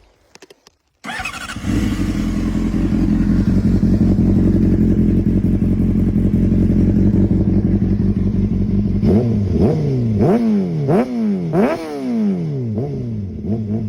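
Honda CBR600RR's inline-four engine through an Akrapovič exhaust, starting about a second in and idling steadily. About nine seconds in it is blipped in a quick series of sharp revs, each rising and dropping back.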